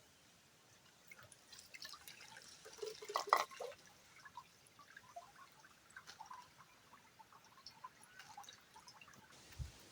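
Faint water drips and small splashes, with a louder splash about three seconds in and a short low thump near the end.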